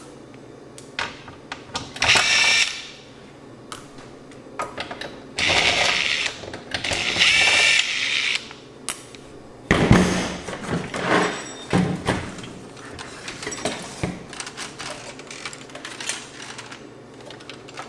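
Cordless electric screwdriver backing out screws from the receiver's metal chassis in three short whirring bursts. About ten seconds in come knocks and rattles as the metal casing is handled.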